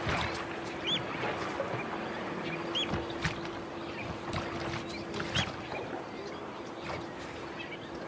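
A bird repeating a short, rising-and-falling chirp every second or two over a steady wash of outdoor noise, with a faint steady hum that fades about two-thirds of the way through.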